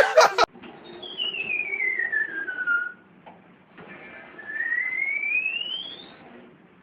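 Two long whistles: the first slides down in pitch, and after a short pause the second slides up.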